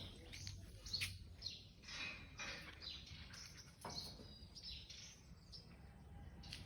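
Small birds chirping: faint, short high chirps that fall in pitch, several a second, some overlapping.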